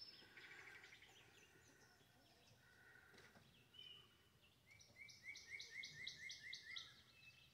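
Faint birdsong: a few scattered calls, then about five seconds in a bird gives a quick run of about ten repeated chirps, several a second.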